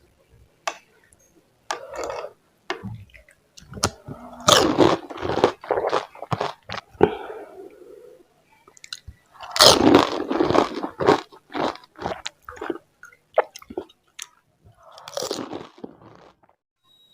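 Crisp panipuri (golgappa) shells crunching as they are bitten and chewed, in irregular clusters of sharp cracks and crunches.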